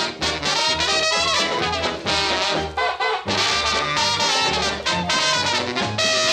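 Instrumental break of an old-time swing band number, with brass (trumpets and trombones) playing over a steady bass beat.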